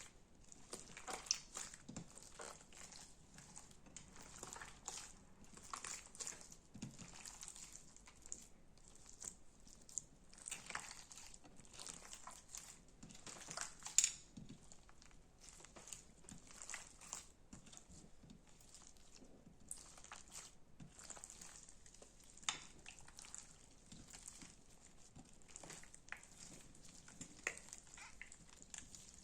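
Slime being squished and stretched by hand: a steady run of small irregular crackles, pops and sticky clicks, with one sharper pop about halfway through.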